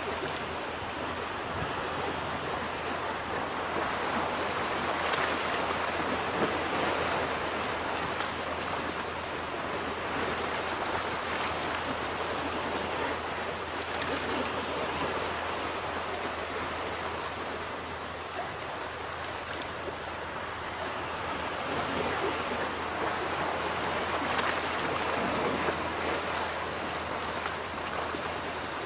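Ocean surf washing onto a beach: a continuous rushing of water that swells twice, a few seconds in and again near the end.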